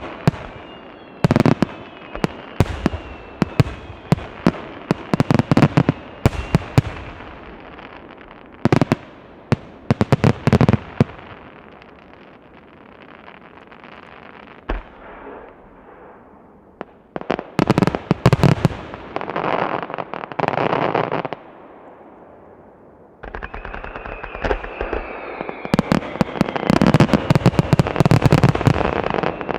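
Fireworks shells bursting in rapid volleys of sharp bangs and crackle, with a quieter lull in the middle. A thin high whistle sounds over the bursts near the start and again in the last third.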